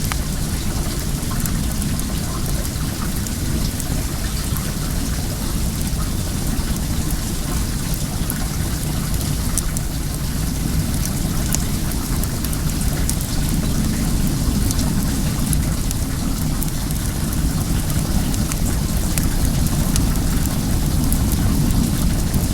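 Well water running and splashing steadily, with sharp little crackles from a wood bonfire scattered through it. A low rumble sits underneath and grows a little louder in the second half.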